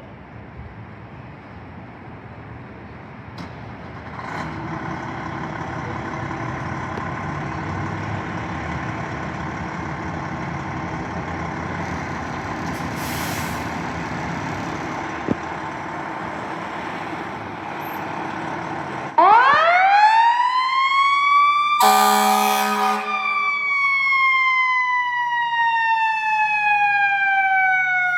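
Fire engine running and growing louder as it approaches. About two-thirds of the way in its siren starts suddenly and winds up to a loud wail, with a short horn blast at the peak. The wail then slowly falls in pitch before winding up again near the end.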